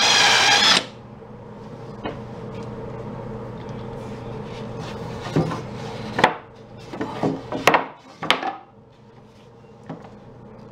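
A power tool's motor running and cutting off about a second in, followed by a series of sharp wooden knocks and clatter as boards are handled.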